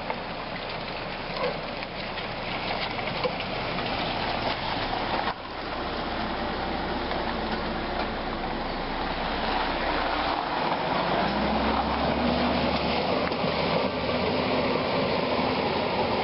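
Four-wheel-drive vehicle engine running under a steady rushing noise, with a brief drop about five seconds in; the sound grows louder in the second half as the engine note rises slightly.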